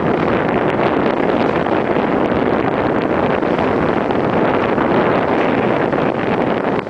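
Steady rush of wind on the microphone blended with a running Sea-Doo GTI 155 SE jet ski's four-stroke engine and water spray, as from a craft under way.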